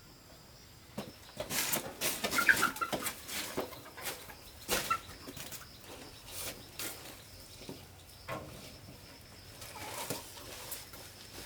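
Chickens clucking, with a busy run of short rustling and wing-flapping noises that starts about a second in and eases off after about five seconds.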